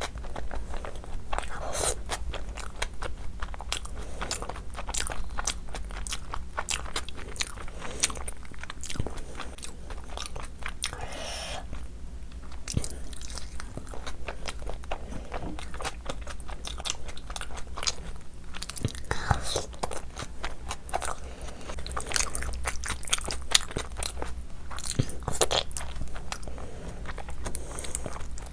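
Close-miked eating: biting and chewing mouthfuls of chicken, with frequent irregular crunches and wet mouth sounds.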